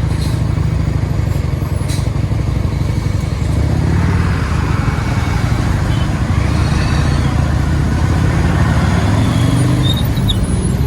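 Motorcycle under way on a highway: a steady, loud rumble of engine and riding noise. Road and traffic noise swells from about four seconds in.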